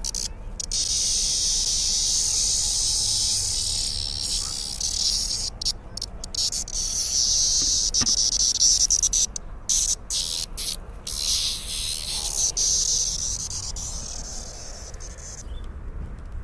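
Cicadas buzzing in a loud, high-pitched, steady drone, broken by a few brief gaps and fading out near the end.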